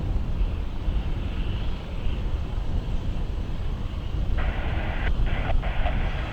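Steady low rumble of aircraft noise at the airfield. About four seconds in, an airband radio scanner opens with a sudden band-limited hiss of static that breaks off briefly twice.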